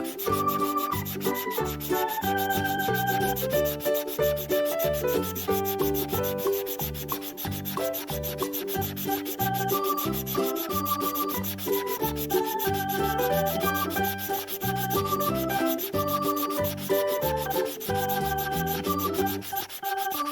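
Quick back-and-forth scratchy rubbing of a colouring tool scribbling on paper as a picture is coloured in, steady throughout. Instrumental background music with a simple melody and a regular beat plays underneath.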